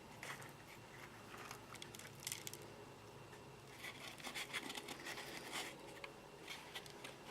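Succulents being handled by hand at close range: short bursts of crackly scratching and rustling in several clusters, the densest from about four to five and a half seconds in.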